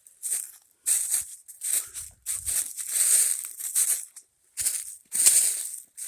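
Footsteps crunching through dry leaf litter on a forest floor, a step or so every second at a walking pace.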